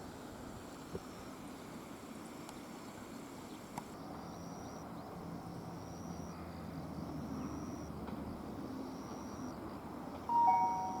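Insects chirping in the station grounds: a steady high trill for the first few seconds, then short high chirps about once a second. Near the end a loud two-tone electronic chime sounds.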